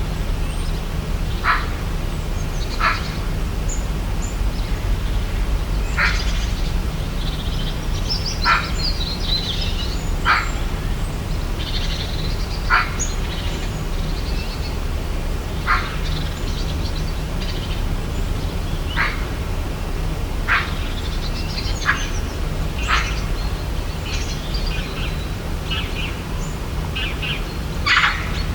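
Birds calling outdoors: a short sharp call repeated every couple of seconds, with scattered higher chirps, over a steady low rumble.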